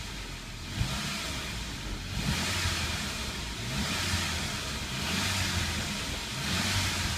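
Saab 9-5's 2.3-litre B235E turbocharged four-cylinder engine running and being revved up a few times, rising and falling three times. No lifter ticking is evident.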